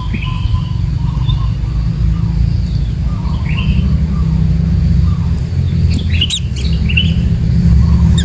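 Thin, short bird chirps come and go over a loud, steady low rumble. About six seconds in there is a quick cluster of sharper chirps and clicks.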